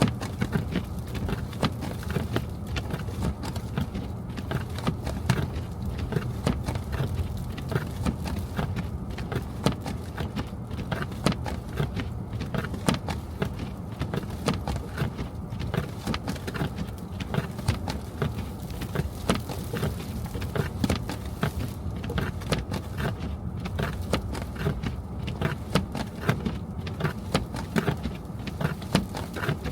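Car on the move, a steady low road and engine rumble with many small irregular clicks and taps over it.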